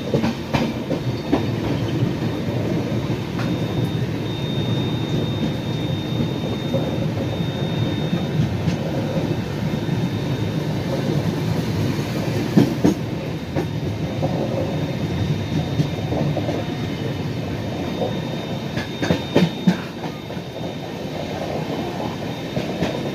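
Passenger train of the Trivandrum Rajdhani Express running at speed, heard from on board: a steady rumble of wheels on the rails with occasional clacks. The loudest clack comes about halfway through, and two more follow close together near the end.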